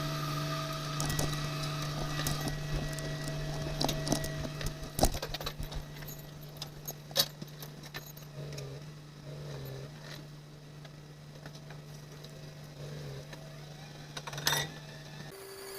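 Trawler's on-board machinery running with a steady low hum, with scattered sharp clanks and knocks; the hum changes abruptly to a different, higher tone near the end.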